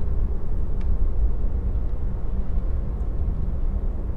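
Steady road and tyre rumble inside the cabin of a moving Tesla electric car, with no engine note; a faint tick about a second in.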